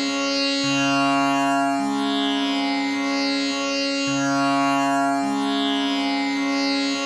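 Tanpura drone tuned to C sharp, its strings plucked one after another in an unbroken cycle that repeats about every three and a half seconds. The lower notes alternate under a steady high Sa, wrapped in a shimmering, buzzing cloud of overtones.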